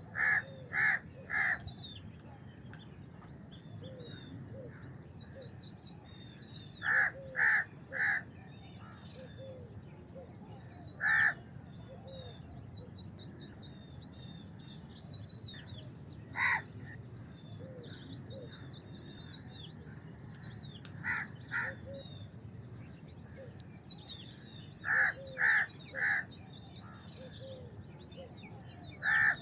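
House crows cawing in spaced groups of one to three short caws, over steady high twittering of small birds.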